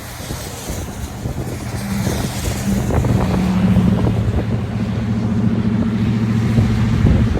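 A car driving on a snowy road, with its engine hum and road noise. The engine note comes in about two seconds in and grows louder as the car gathers speed.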